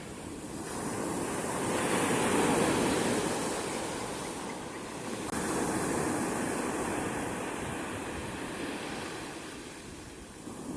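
Sea waves washing onto the shore in slow swells. One builds to a peak two to three seconds in, and another breaks suddenly about five seconds in and ebbs away.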